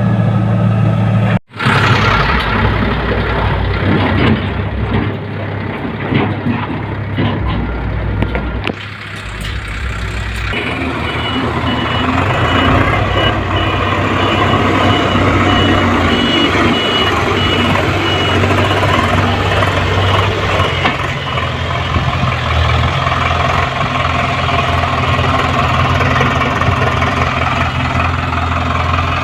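Sonalika DI 745 diesel tractor engine running steadily while hauling a fully loaded trolley, its note shifting about ten seconds in. The sound breaks off for an instant about a second and a half in. A rapid high-pitched beeping runs for several seconds in the middle.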